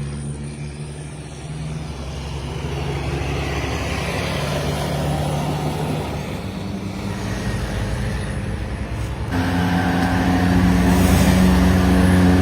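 Heavy truck diesel engines running under load as trucks climb past, growing louder, with a closer and louder engine coming in abruptly about nine seconds in.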